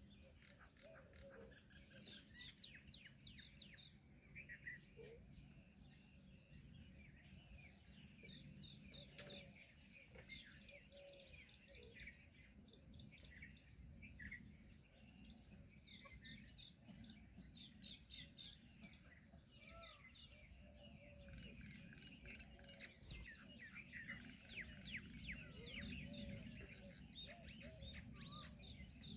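Many small birds chirping and twittering at once, a faint, continuous chatter of short overlapping calls.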